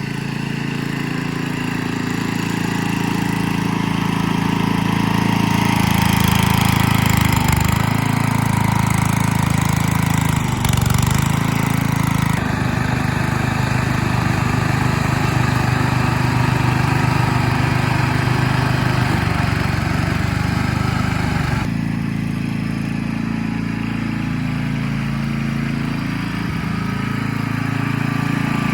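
The engine of a 1985 Westwood W10 ride-on mower running continuously while it is driven. Its note shifts several times: it is louder from about six to twelve seconds in, changes again near twelve seconds, and drops back a little after about twenty-two seconds.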